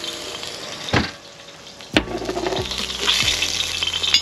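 Food sizzling and frying in hot oil in a wok. There is a sharp knock about a second in and a louder one about two seconds in, and after that the sizzle builds up.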